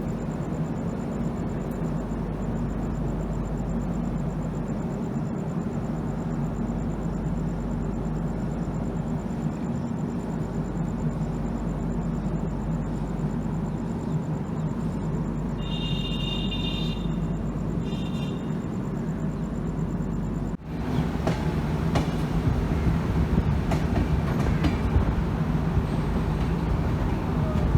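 Passenger train running, heard as a steady rumble, with two short high tones about two-thirds of the way through. It then cuts abruptly to a louder stretch of rattling and clicking from the wheels and carriage.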